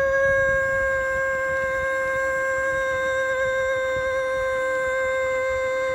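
Bicycle brakes squealing in one long steady, high-pitched tone as the bike slows on wet rims, cutting off suddenly near the end.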